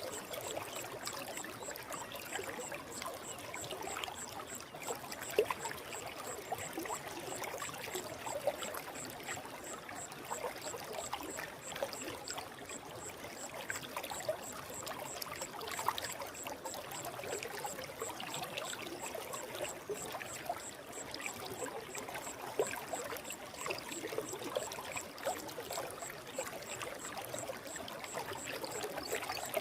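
Forest stream flowing: a steady rush of water with many small trickles and splashes.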